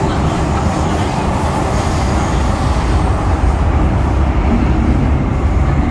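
MTR M-Train electric multiple unit running on the line, a steady, loud rumble of wheels on rail and running gear.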